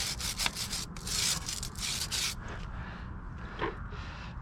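Brush scrubbing a motorcycle chain in a run of back-and-forth strokes, which die down to quieter rubbing about halfway through.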